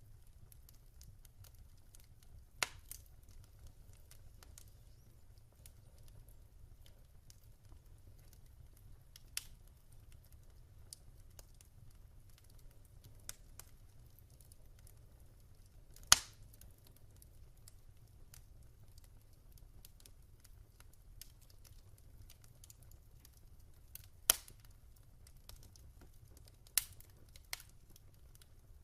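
Wood fire crackling: sparse, sharp pops and snaps over a low steady rumble, with the loudest pop about halfway through and another strong one a little later.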